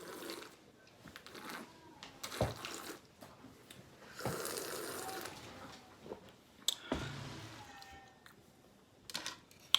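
Close-miked eating: wet chewing and mouth smacks, with a few sharp clicks and a longer wet stretch about four to five seconds in.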